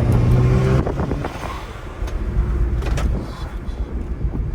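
Muffler-deleted car exhaust: a loud, steady drone for the first second, then a rough low rumble as the engine runs on.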